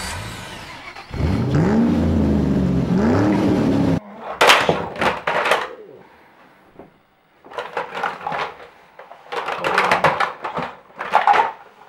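An engine sound from a toy monster truck rises and falls for a few seconds, then cuts off abruptly. Plastic Mega Bloks then topple and clatter down in several bursts.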